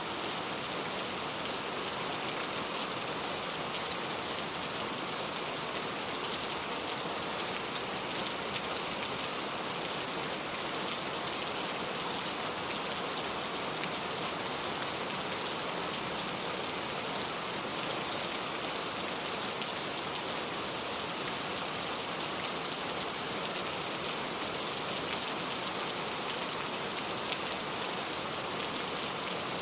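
Heavy rain pouring steadily, a dense even hiss of drops falling on surfaces with faint individual drop ticks.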